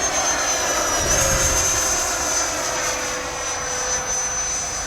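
80 mm electric ducted fan of a model jet running with a steady high whine, its pitch stepping up slightly about a second in as the throttle opens a little.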